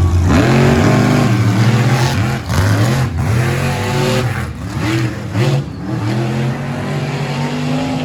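Monster truck engines at full throttle on a drag run, revving up and dropping back again and again, about once a second.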